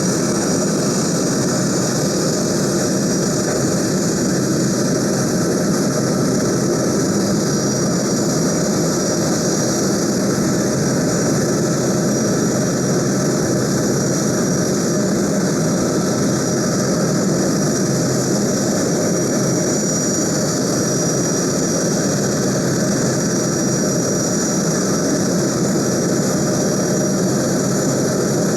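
Jet engines of a Boeing C-17A Globemaster III, its Pratt & Whitney F117 turbofans, running steadily: a loud, even rush with a thin high whine over it, holding at one power throughout.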